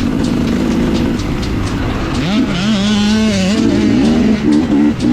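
Dirt bike engine running, then revving up sharply about two seconds in, holding high revs and blipping the throttle up and down near the end.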